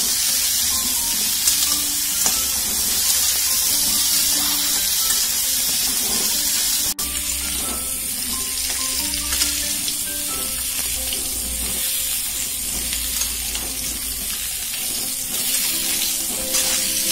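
Whole lemons sizzling as they fry in sesame oil in a pan, turned now and then with a spatula, cooking until their skins split and soften. Soft background music plays under the steady sizzle.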